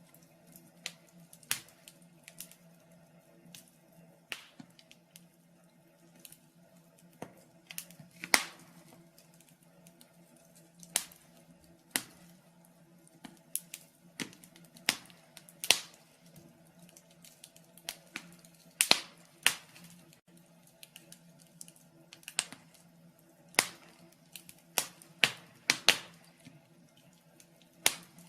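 Wood fire crackling in a fireplace: irregular sharp pops and snaps, a few of them much louder than the rest, over a faint steady low hum.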